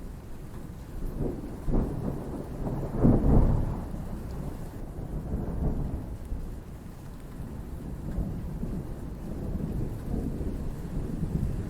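Thunder rumbling over steady rain. The loudest roll comes about three seconds in, with smaller swells of rumble later.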